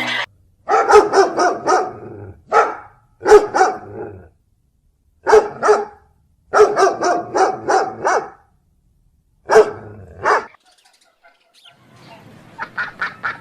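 A dog barking in clusters of loud barks with short silent pauses between them. Near the end, fainter, quick repeated calls begin.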